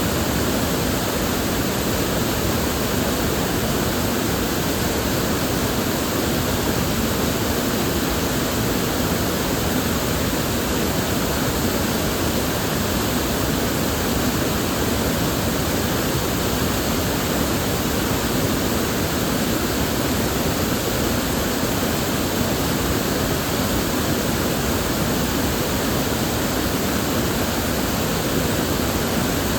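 Steady rush of flowing river water, an even, unbroken hiss-like sound with no separate splashes or other sounds.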